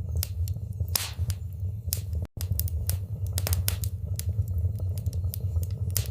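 Fire burning in a fireplace, crackling with frequent sharp, irregular pops over a steady low rumble. The sound cuts out for a split second a little over two seconds in.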